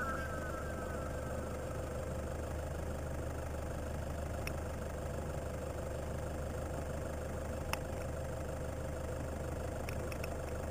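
Toyota Hilux 4x4 engine running steadily with a low, even hum and a couple of faint knocks.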